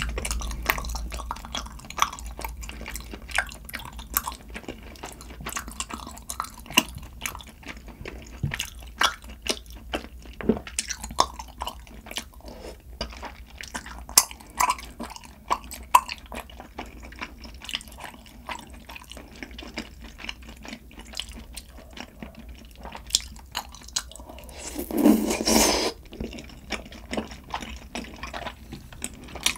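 Close-miked chewing of malatang hot pot and fried pork, with many short wet clicks and smacks. One louder, noisier eating sound lasts about a second near the end.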